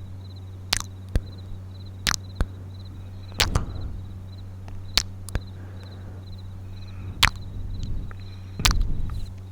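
Close-miked kissing sounds: a string of short lip smacks, about nine over the stretch, some in quick pairs, over a steady low hum and a faint, evenly repeated high chirping.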